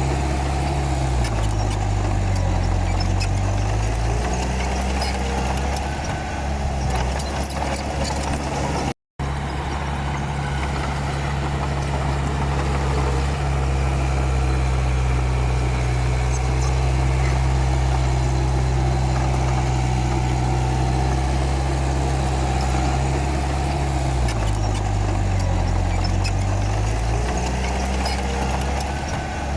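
Komatsu D31P bulldozer's diesel engine running steadily, its pitch dipping and recovering about a second in and again near the end.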